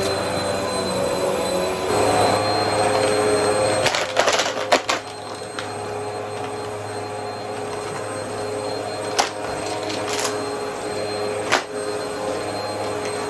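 Upright vacuum cleaner running steadily with a whining motor tone, with sharp metallic rattles and clinks of coins being sucked up, a cluster of them about four seconds in and single ones later.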